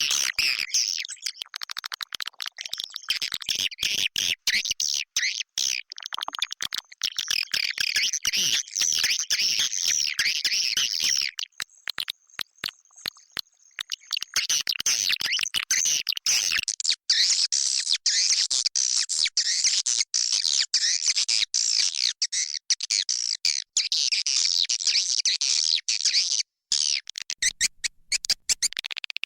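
Edible-nest swiftlet call recording: dense, rapid high twittering and chirping of the 'inap' (roosting) type, played to lure swiftlets into a nesting house. The calling thins out for about three seconds near the middle, then resumes just as dense.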